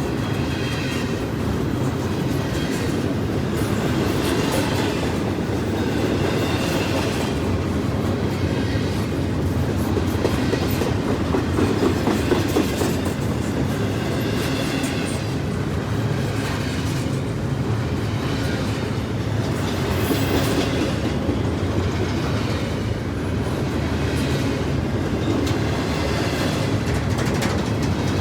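CSX freight train cars rolling past with a steady rumble, their wheels clicking over the rail joints at intervals of a second or two.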